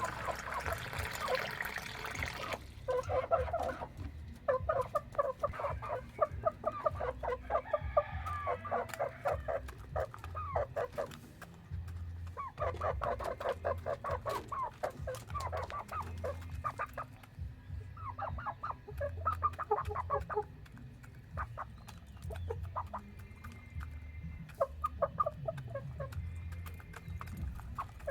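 Chickens clucking in repeated bursts of rapid calls. Water runs for the first couple of seconds, then stops.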